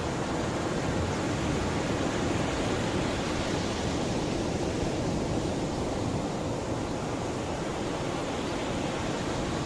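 Sea waves washing onto the shore: a steady rushing wash that eases a little about halfway through.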